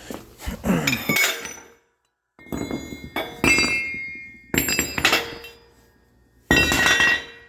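Metal pipe-bender dies set down one after another: about five clanks, each leaving a short metallic ring.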